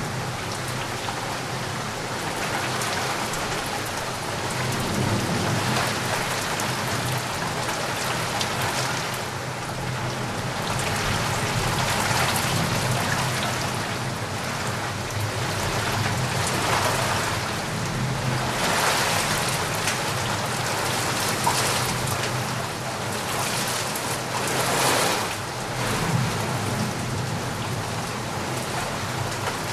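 Steady rain falling, a dense even hiss of drops that swells louder several times, most strongly about two-thirds of the way through and again near the end.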